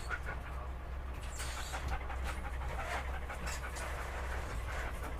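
Quick rhythmic panting, like an animal breathing hard, over a steady low hum.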